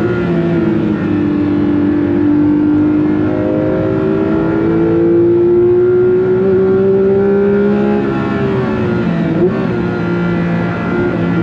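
Porsche 911 GT3 (992.2) naturally aspirated 4.0-litre flat-six pulling hard at high revs, its pitch climbing slowly through a long gear. About eight seconds in the revs drop, with a short blip a second later, then climb again near the end.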